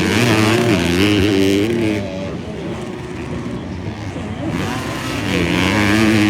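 Motocross bikes in a 250-class race going by, their engines revving up and down with the throttle. One bike is loud for the first two seconds, then it quietens until a second loud run begins about five seconds in.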